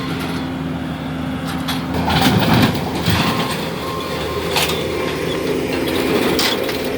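Heavy equipment's diesel engine running steadily, its note dipping under load for a moment about two seconds in, with several sharp knocks and clanks of debris being handled.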